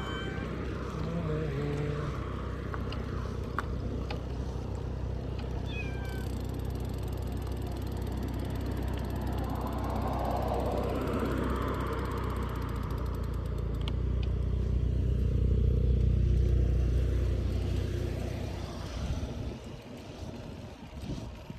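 A cat meowing a couple of times near the start, with a few short higher calls after, over the steady low rumble of the moving vehicle it rides on. The rumble swells in the second half, then fades near the end.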